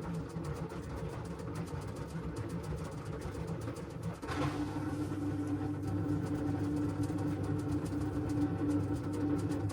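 LG washing machine running mid-cycle with a steady motor hum. About four seconds in, the drum motor shifts to a new steady tone that grows slightly louder.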